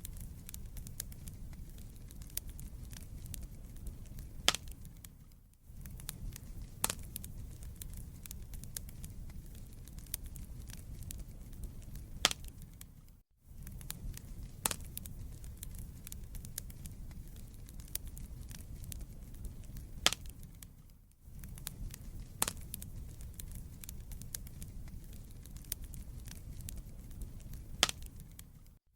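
Wood fire burning in a fireplace: a steady low rumble of flames with scattered sharp crackles and pops. The sound dips out briefly about every eight seconds.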